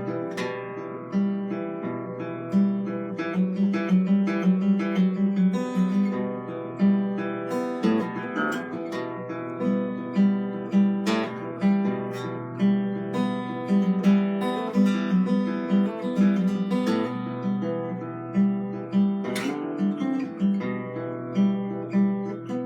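Acoustic guitar music: plucked notes and strummed chords over a repeating low note pattern.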